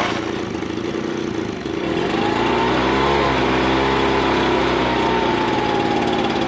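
Ryobi BP42 backpack blower's two-stroke engine running, its speed picking up about two seconds in and then slowly sagging. The engine is sucking air between the carburettor isolator block and the cylinder, where a mounting bolt has backed out.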